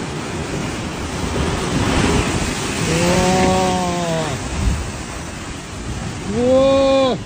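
Typhoon wind and surf giving a steady rushing noise, with wind buffeting the microphone. Two long drawn-out shouts stand out: a lower one about three seconds in and a louder, higher one near the end, each rising and then falling in pitch.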